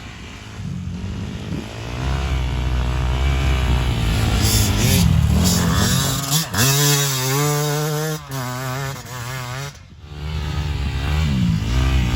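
Dirt bike engine running and revving. Its pitch climbs steeply about six seconds in and holds, then falls off sharply near ten seconds before picking up again.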